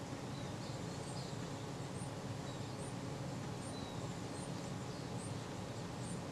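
Steady low room hum, with a small bird chirping faintly in the background: a short, high chirp repeated roughly once a second.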